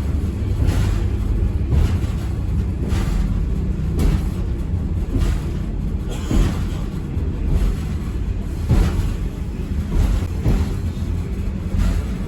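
Train running: a steady low rumble with irregular knocks, typical of wheels over the track heard from on board.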